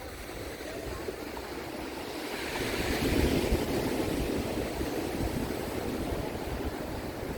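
Ocean surf breaking on a sandy beach, a wave swelling to its loudest about three seconds in, with wind rumbling on the microphone.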